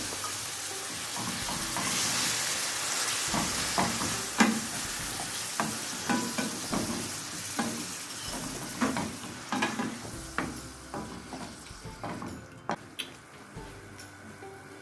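Raw peeled shrimp sizzling in hot olive oil with chopped garlic in a stainless steel frying pan, stirred with a wooden spoon that knocks against the pan now and then. The sizzle is loudest a couple of seconds in and dies down toward the end.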